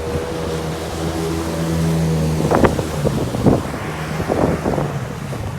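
Jet ski engine running at a steady pitch, then easing off about two and a half seconds in. Irregular sharp whooshes of water and wind come over it from then on.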